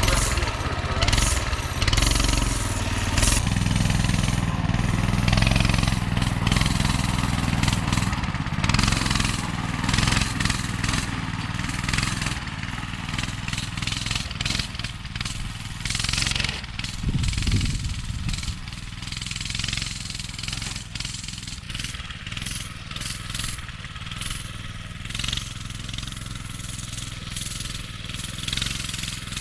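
Go-kart's swapped-in Coleman mini bike engine, a small single-cylinder four-stroke, running as the kart is driven, loud for the first dozen seconds and quieter after that.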